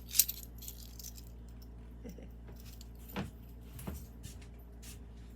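Small glazed ceramic pieces clinking against each other as they are handled and set down: one sharp clink just after the start and a couple of lighter knocks about three and four seconds in, over a low steady hum.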